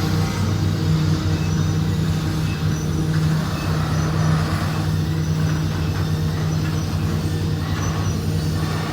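Diesel locomotive engine of a freight train running with a steady low drone, under a haze of rolling and rumbling noise.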